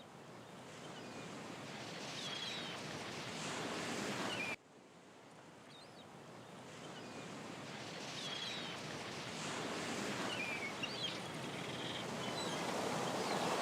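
Outdoor ambience: a steady rushing noise that fades up, with faint short chirping bird calls over it. It cuts off abruptly about four and a half seconds in, then fades up again.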